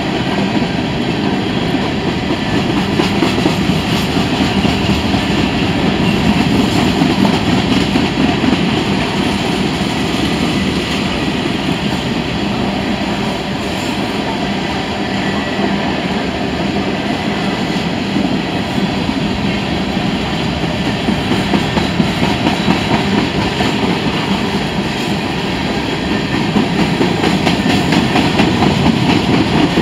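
Freight train of loaded covered hopper cars rolling past, steel wheels on rail making a loud, steady rumble with faint scattered clicks.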